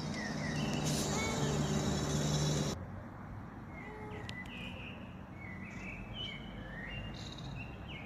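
Small birds chirping in short, repeated calls. For the first few seconds a louder low hum with hiss lies underneath, then stops abruptly.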